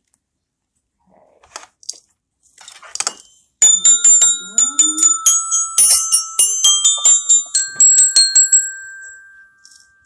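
A small metal bell-type toy is rung in rapid strokes starting about three and a half seconds in, each stroke leaving a bright ringing tone. The pitch of the ringing changes partway through, and the strokes thin out near the end. Before that there are only a few faint knocks.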